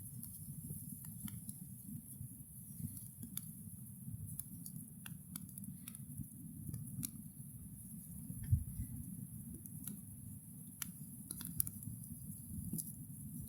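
Small ritual fire crackling, with sharp pops at irregular intervals over a low steady rumble and one louder dull thump about two-thirds of the way through.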